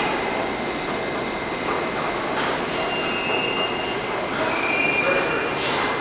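Kawasaki-built R142A New York City subway train moving through the station with a steady rumble of wheels on rail. Thin, high wheel squeals come in over the second half.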